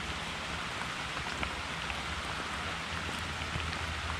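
Steady rain falling, an even hiss with scattered small drop taps.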